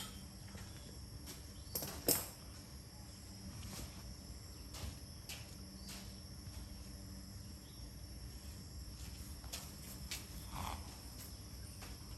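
Steady high-pitched insect drone over faint outdoor background, broken by a few short knocks and clicks, the loudest about two seconds in.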